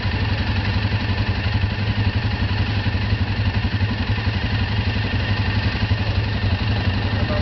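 ATV engine idling steadily with a fast, even low pulse.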